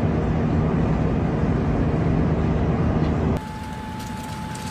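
Steady drone of an airliner cabin in flight, engine and air noise. About three and a half seconds in it cuts off abruptly to a quieter background with a faint steady high tone.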